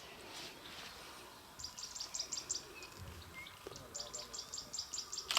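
A small bird calling: two phrases of rapid, high chirps, each a quick run of about half a dozen to ten notes, a little over a second apart. A sharp knock cuts in right at the end.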